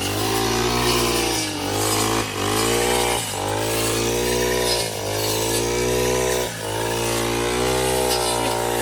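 Small engine of a grass-cutting machine running hard, its pitch dipping and recovering every second or so.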